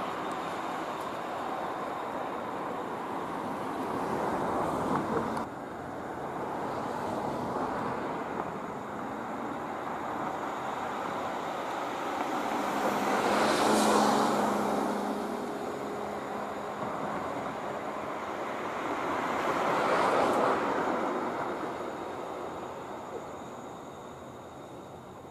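Outdoor traffic noise: vehicles passing by, with one louder pass about halfway through and another later on. The sound drops suddenly about five seconds in.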